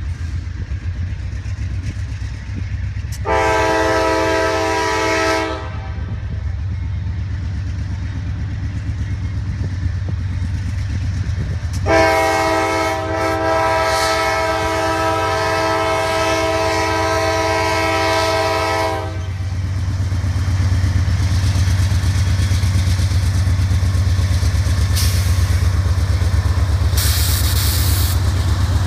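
CSX diesel locomotive's air horn sounding a chord twice: a short blast of about two and a half seconds, then a long blast of about seven seconds, over the steady low rumble of the diesel engine. A brief hiss comes near the end.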